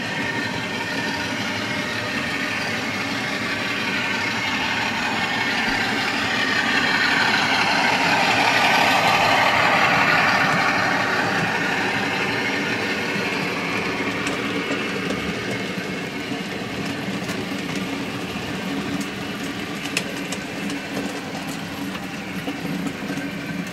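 Two OO gauge model diesel locomotives, a Bachmann Class 25 and a Class 47, running past each other on the track. A steady rolling rumble and motor hum grows louder to a peak about ten seconds in, then slowly fades, with light clicks of wheels over rail joints in the second half.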